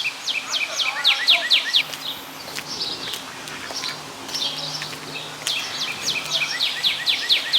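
A songbird singing two phrases a few seconds apart, each a quick run of high, down-slurred whistled notes, about five a second.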